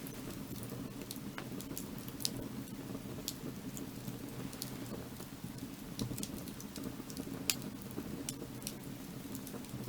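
Wood fire burning, with irregular sharp crackles and pops over a steady low rumble of the flames; the loudest snap comes about three quarters of the way through.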